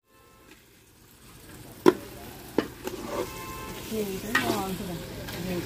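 Raw chicken pieces frying with onions and green chillies in a large aluminium pot, sizzling as a metal ladle stirs them. After a nearly silent first second the sizzle builds, with two sharp clanks of the ladle against the pot about two seconds in and lighter scrapes later.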